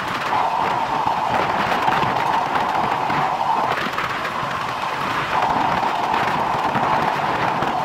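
Passenger train running at speed, heard from an open coach window: a steady rush of wheels rolling on the rails with rumbling wind noise.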